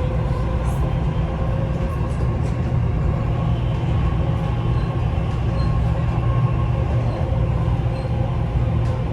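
Dubai Metro Red Line train running between stations, heard from inside the carriage: a steady low rumble with faint, steady whining tones above it.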